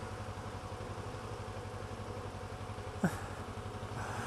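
Kawasaki ER-6f's parallel-twin engine running steadily at low revs, an even low pulse. A brief sharp falling sound cuts in about three seconds in.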